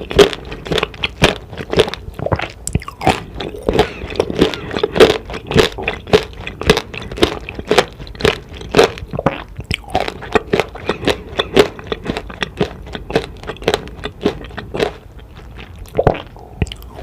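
Close-miked chewing of tanghulu, fruit in a hard, glassy candied-sugar shell, crunching in quick repeated bites. The crunching thins out after about 15 seconds, and one last loud crunch comes near the end.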